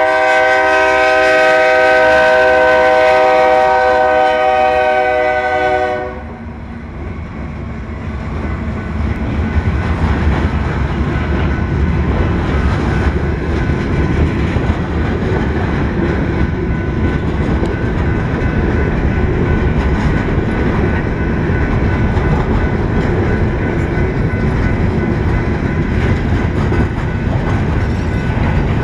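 Diesel freight locomotive's air horn blowing one long blast at a grade crossing, a chord of several tones held for about six seconds and then cut off. Then the freight cars roll by, a steady rumble of wheels on the rails.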